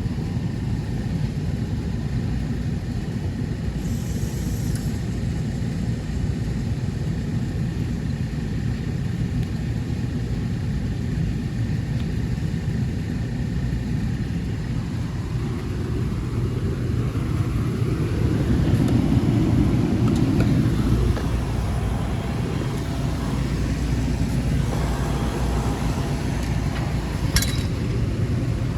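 Walk-in cooler condensing unit running, compressor and condenser fan giving a steady low hum that grows louder for a few seconds past the middle. A single sharp click comes near the end.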